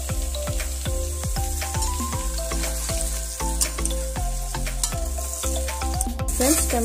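Pork and onion sizzling as they fry in an iron kadai, with a spatula stirring and knocking against the pan. Background music with a melody and bass plays under it.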